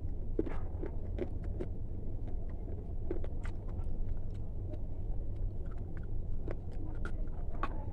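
Irregular crisp crunches and crackles, a few each second, over a steady low hum.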